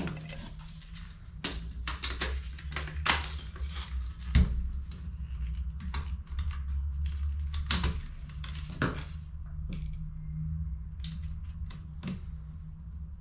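Irregular clicks, taps and knocks of small hard parts being handled, over a steady low hum: work on HP CE285A laser toner cartridges during refilling. The loudest knock comes a little over four seconds in.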